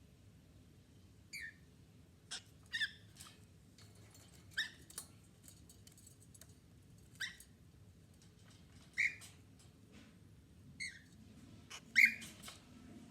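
Cockatiels giving short, slightly falling chirps every second or two, with a few soft clicks in between; the loudest chirp comes near the end.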